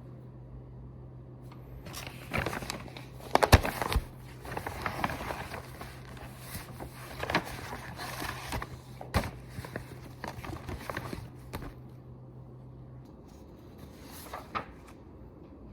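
Handling noises: a run of knocks, clicks and rustles, over a steady low hum that stops about thirteen seconds in.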